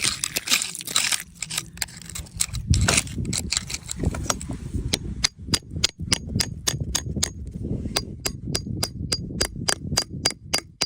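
Scraping at the start, then a steady run of sharp taps, about four a second, from a hand tool striking rock to free a crystal.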